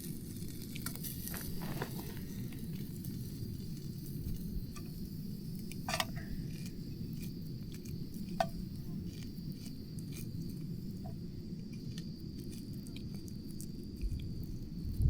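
Food sizzling over a campfire: a steady low sizzle with scattered sharp crackles. The loudest crackle comes about six seconds in and another a couple of seconds later.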